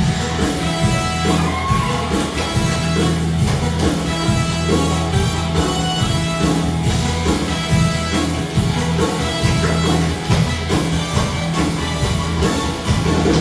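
Live band playing rock-and-roll music: guitar over a steady drum beat and sustained bass notes.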